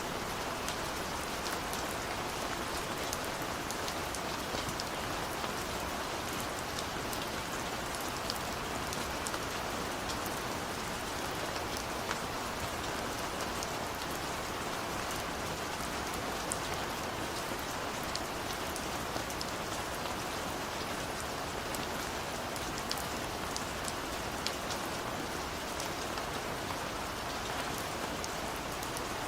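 Steady rain with a dense patter of individual drops ticking against a window pane.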